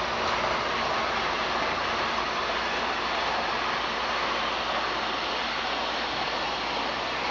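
Small electric motor and drivetrain of an HO-scale Faller Car System model truck running along a slot car track, giving a steady, even whir.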